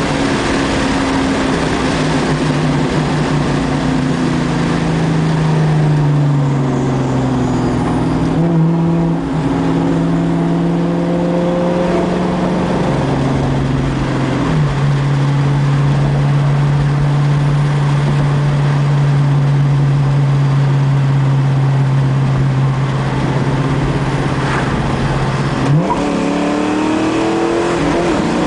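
2002 Ford Mustang GT's 4.6 L two-valve V8 through a Dynomax exhaust, running loud under load. Its pitch eases down, drops a step about halfway in and holds steady for about ten seconds, then revs up sharply near the end.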